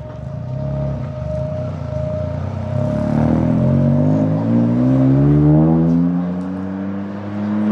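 Exhaust of a hydrogen-burning Toyota Corolla's 1.6-litre turbocharged three-cylinder engine (the GR Yaris unit). It runs low and uneven at first, then the pitch climbs as the car accelerates away from about three seconds in, rising again near the end.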